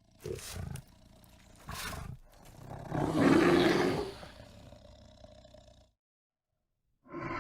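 Big cat roaring: two short sounds, then one loud long roar about three seconds in that trails away.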